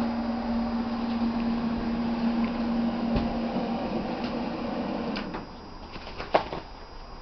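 Welder running: a steady hum with a rough hiss that stops suddenly about five seconds in, followed by a few sharp knocks and clicks of metal being handled.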